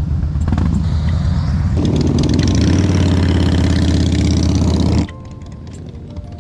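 Motorcycle engine running with a deep, pulsing exhaust note that grows louder about two seconds in. It cuts off suddenly about five seconds in.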